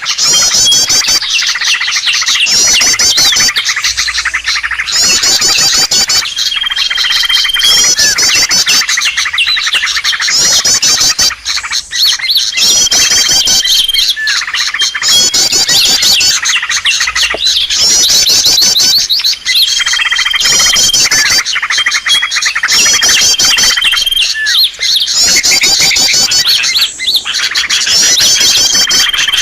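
Small-bird lure recording used to draw in birds for trapping: continuous rapid, high chirping, with a short steady whistle recurring every six or seven seconds in a looped pattern.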